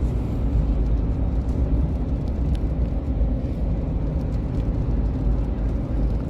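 Steady low rumble of a moving car heard from inside the cabin, road and engine noise, with a few faint ticks.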